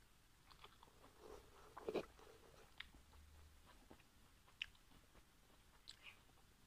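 Quiet chewing of a steamed pork momo, with soft smacks and scattered light clicks; the loudest comes a little under two seconds in.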